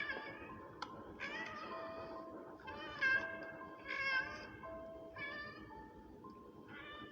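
Kitten meowing over and over, one high call roughly every second and a half, the loudest about three and four seconds in, over a simple background melody of held notes.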